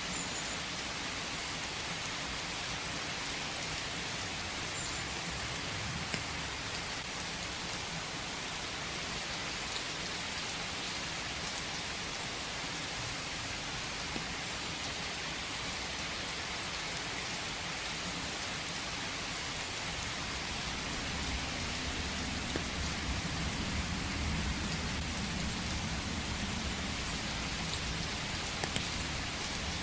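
Steady rain falling in a forest: a dense, even hiss with a few faint drop ticks. About twenty seconds in, a low rumble rises underneath it.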